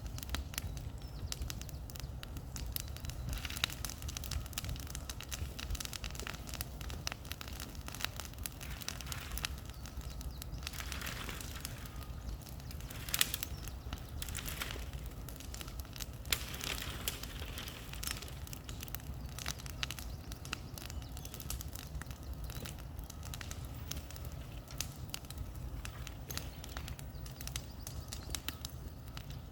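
Bonfire burning with constant crackling and sharp pops, a few louder snaps among them.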